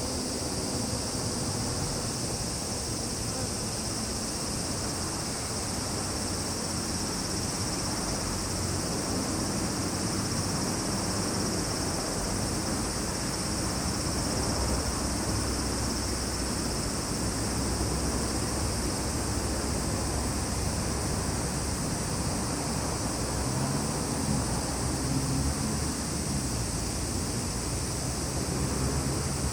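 Steady, unbroken chorus of summer insects, a high shrill drone over a low rumble.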